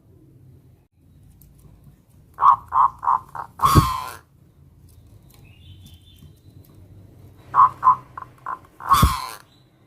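Zebra dove (perkutut) singing: two song phrases about five seconds apart. Each phrase is a quick run of short cooing notes that ends in one louder, rougher note.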